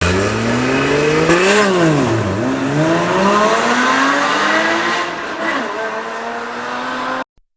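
Porsche Cayman engine revving up, dipping sharply about two seconds in, then climbing steadily in pitch for several seconds as the car accelerates. It cuts off suddenly near the end.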